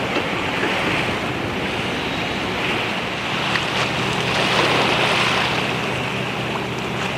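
Sea water washing and lapping against a harbour quay, with wind on the microphone; a low steady boat engine hum comes in about three seconds in.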